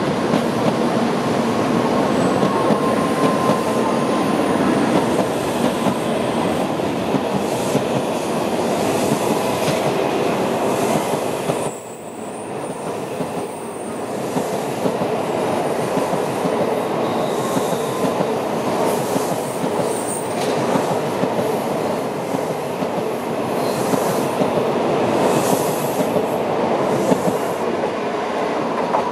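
Tokaido Shinkansen N700-series trains rolling past at low speed: a steady rumble of wheels on rail, with faint high-pitched wheel squeals now and then. There is a short lull about twelve seconds in before the rolling noise builds again.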